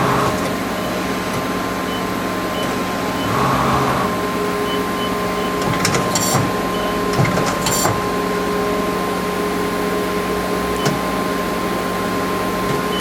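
Mori Seiki Frontier L1 CNC lathe powered up and moving through its paces, spindle not yet running: a steady machine hum, short whirs of the slides moving twice early on, and sharp mechanical clicks and clunks about six and eight seconds in.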